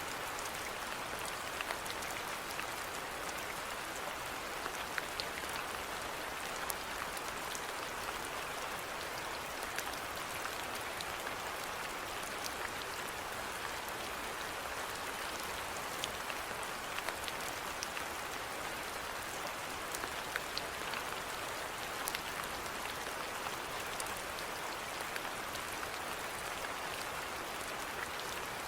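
Steady rainfall, an even hiss with scattered sharp drips of individual drops landing on a surface.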